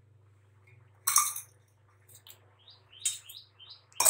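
A quick run of short, high bird chirps in the second half, over a faint steady low hum, with one short sharp sound about a second in.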